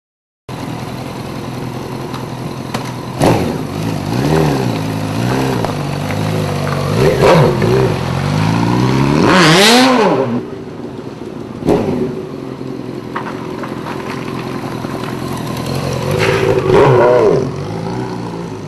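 Motorcycle engine running and revving up and down several times, the highest and loudest rev about halfway through, with a couple of sharp knocks in between.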